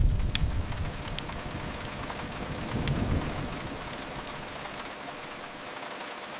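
Steady rain with scattered sharp crackles from a wood fire. A low rumble fades over the first second or so and swells again about three seconds in.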